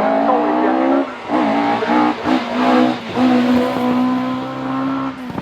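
Rally car engine at high revs: the pitch climbs, drops sharply about a second in, rises and falls several times, then holds steady near the end.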